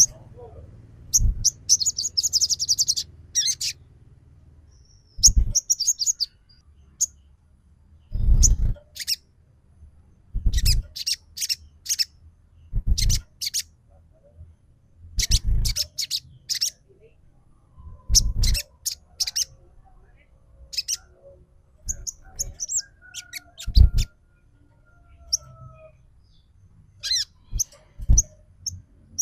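Sogon trotol (spotted sogon) calling, used as a lure call: short, sharp, very high chirps in quick clusters, repeated every two or three seconds, most with a dull low thud alongside.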